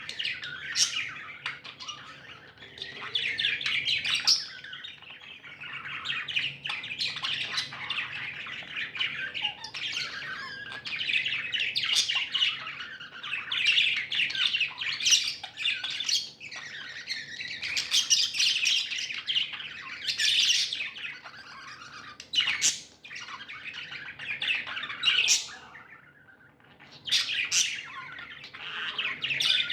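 Budgerigars chirping and chattering almost without pause, with sharper squawks mixed in and a short lull near the end.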